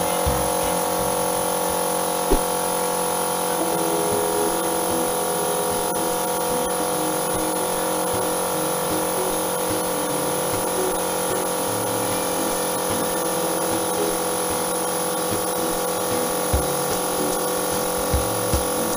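Airbrush compressor running with a steady electric hum and a hiss of air. A few soft knocks sound over it.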